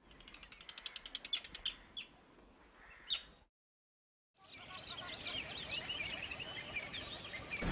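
Birds chirping: a rapid run of short notes and a few single chirps, then after a brief silence several birds calling at once in a busy mix of quick rising and falling chirps.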